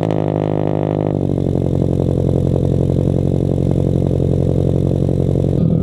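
Supercharged 2018 Subaru BRZ's flat-four engine, breathing through a catless header and single-exit exhaust, just after start-up: the raised start-up revs drop about a second in and it settles into a steady idle.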